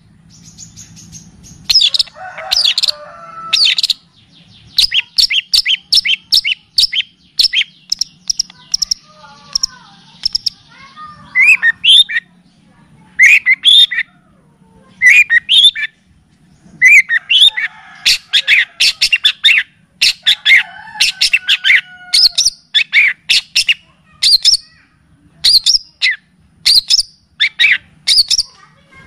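Recorded songbird song for training a caged bird, with kapas tembak and cililin calls: loud bursts of sharp, high chirps repeated every second or two, with a rapid trill of quick notes about five seconds in.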